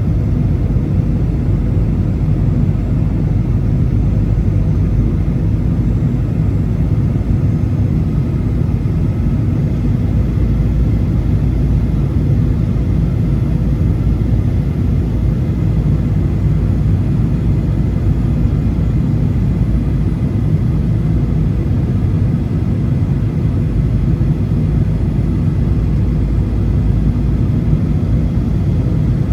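Steady cabin drone of a Boeing 737 in flight: engine and airflow noise heard from inside the cabin, a deep even rumble with faint steady tones above it.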